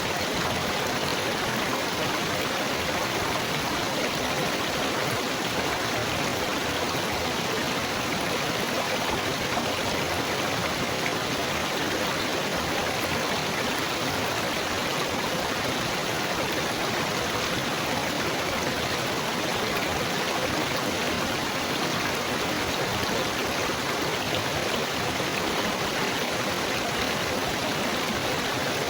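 Steady trickling, babbling water, like a small stream running over stones, at an even level throughout.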